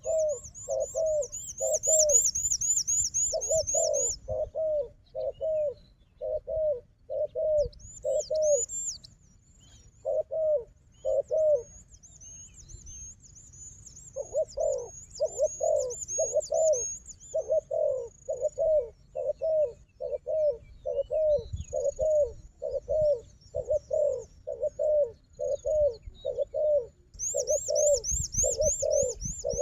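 Spotted doves cooing: runs of short, low coos at two or three a second, with a pause of about two seconds in the middle. A small bird twitters in a fast, high-pitched trill for the first few seconds and again near the end.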